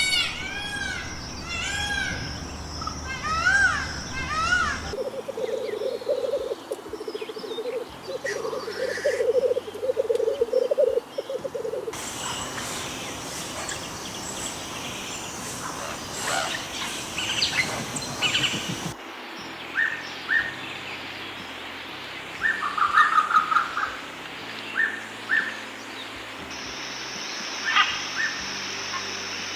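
Small birds chirping and calling in short, repeated notes. The sound changes abruptly every few seconds, as if separate recordings were spliced together; for several seconds early on there is also a low, rapid buzzing chatter.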